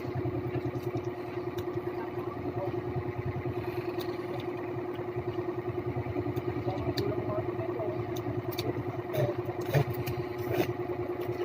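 A steady, engine-like machine hum with a fast, even pulse, holding the same pitch throughout. A few short clicks come about nine to ten seconds in.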